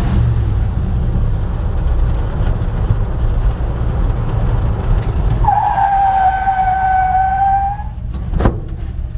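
1960 Dodge truck driving with steady engine and road rumble, then stopping hard on its power disc brakes. A single high squeal lasts about two and a half seconds, dropping slightly in pitch as the truck comes to rest, followed by one sharp knock.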